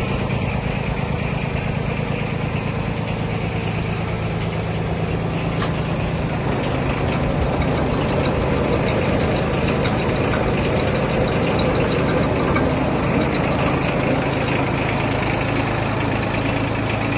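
Yanmar F155D mini tractor's three-cylinder water-cooled diesel engine running steadily at a low speed, getting slightly louder about six seconds in.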